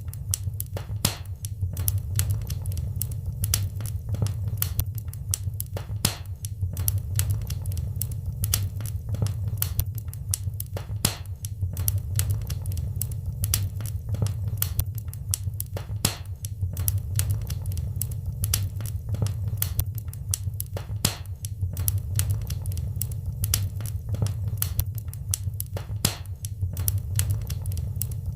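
Wood fire crackling in a fireplace, with irregular sharp pops and snaps several times a second over a steady low rumble.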